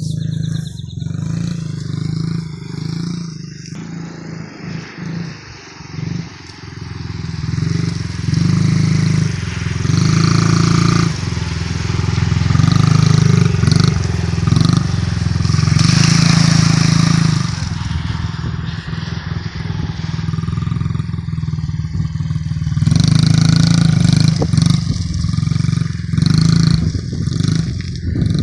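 Honda CRF50's small single-cylinder four-stroke engine running and revving up and down, with several louder surges of throttle.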